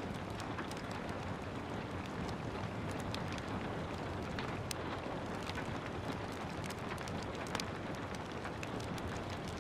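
Steady rain, with the irregular sharp pops and crackles of a wood fire burning scattered through it.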